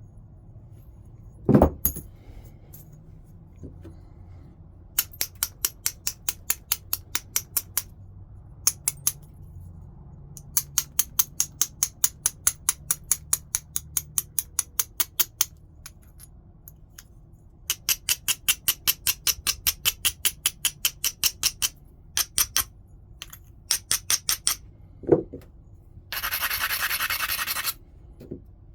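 Stone being flintknapped: a sharp hammer strike on the stone, then long runs of quick rhythmic scraping strokes across its edge, about six a second, as the edge is abraded. A second strike comes near the end, followed by one longer continuous scrape.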